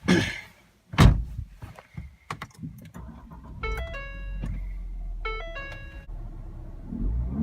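Two heavy thunks, then the 2017 Fiesta ST's 1.6 L EcoBoost four-cylinder idling with a low drone, its exhaust dumped straight out after the downpipe with no cat-back. Two short runs of electronic chime-like tones sound in the middle, and the revs begin to climb near the end.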